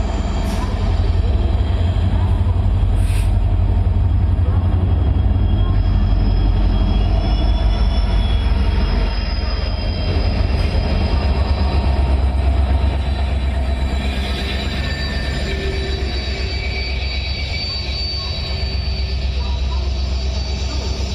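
Passenger train running along the track: a steady, loud low rumble of wheels on rails, with faint thin high-pitched squealing tones from the wheels coming in after a few seconds.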